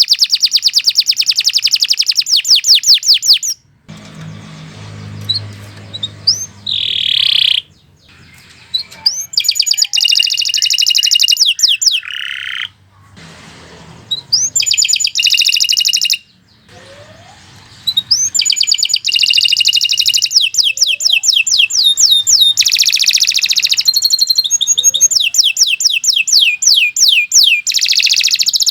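Domestic canary singing: long phrases of rapid, high trills, broken several times by short pauses of a second or two.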